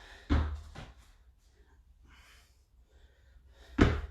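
A person breathing hard from exertion: two short, forceful exhales about three and a half seconds apart, with fainter breaths between.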